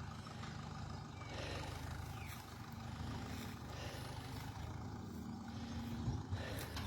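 Grey Ferguson ("Grey Fergie") tractor engine running steadily, with a couple of light knocks near the end.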